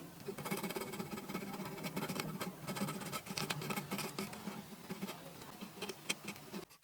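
Rapid, irregular scratching and clicking from hand work on wood, stopping abruptly near the end.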